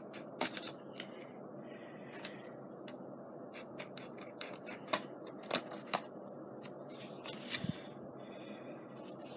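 Scissors snipping in short, irregular cuts, trimming the uneven edges of layered paper pieces glued together into a scrapbook cover.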